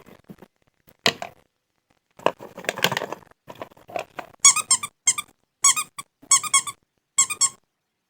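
A few clicks and a short rustle, then five bursts of high-pitched squeaking in quick succession, each made of several rapid chirp-like notes.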